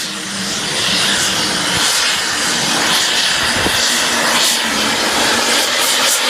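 Diesel pulling tractor running hard under full load down the track: a loud, steady engine noise with a strong high hiss and whine.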